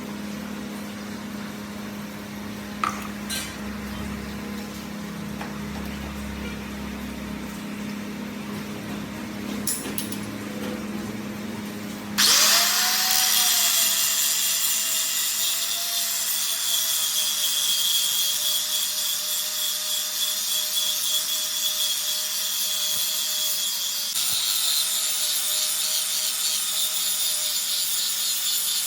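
A power tool in a metalworking shop. First a steady low hum with a few sharp clicks, then about twelve seconds in the tool starts suddenly and runs steadily, with a loud high hiss and a steady whine.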